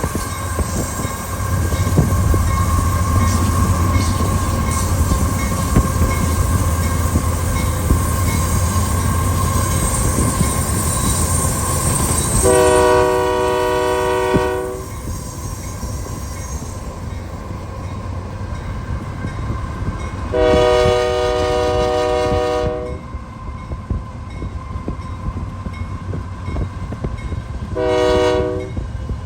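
A freight train's diesel locomotive passes with a steady engine rumble and rolling wheel noise, strongest in the first ten seconds. Over it the locomotive's chime horn sounds two long blasts and then a short one near the end, the opening of the long-long-short-long grade-crossing signal.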